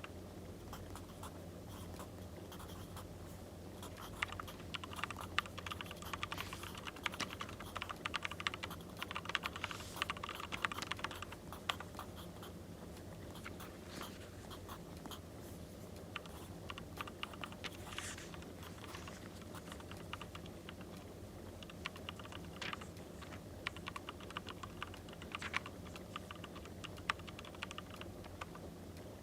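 Pencil or pen writing on paper: bursts of quick scratchy strokes and taps, busiest in the first half and again near the end, over a steady low background noise.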